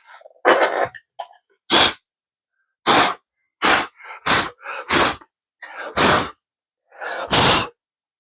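Short, loud puffs of air blowing aluminum shavings off the work, about nine of them at uneven intervals.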